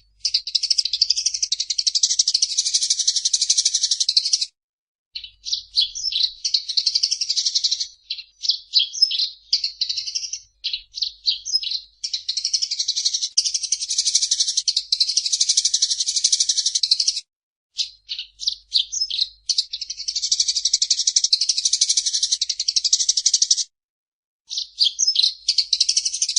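Eurasian tree sparrow chirping in long, rapid runs of chatter lasting several seconds, broken by short pauses and looser stretches of separate chirps.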